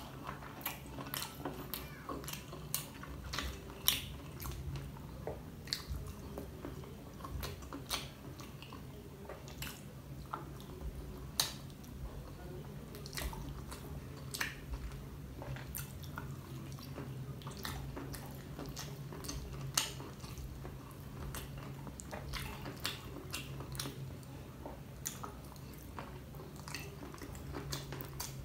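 Close-up eating sounds of sauce-coated fried dynamite shrimp being bitten and chewed: wet mouth smacks and many sharp, irregular clicks over the length of the chewing.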